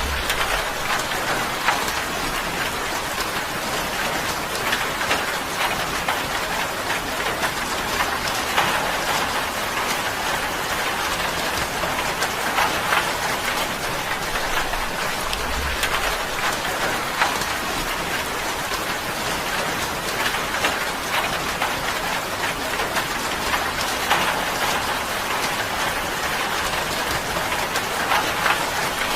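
Steady rain drumming on a tin roof, with a constant patter and many single drops ticking sharply on the metal.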